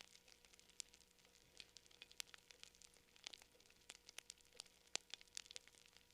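Campfire crackling: irregular sharp pops and snaps, with one louder pop about five seconds in.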